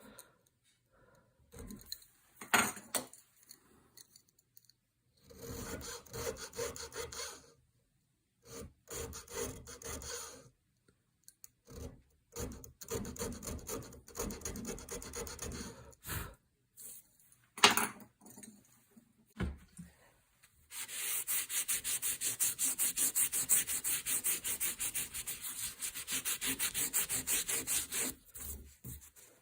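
A homemade checkering tool, filed from a flat screwdriver, scraping back and forth across wood as it cuts checkering lines. It comes in several short bursts of strokes with a few sharp clicks between them, then a longer run of quick, even strokes near the end.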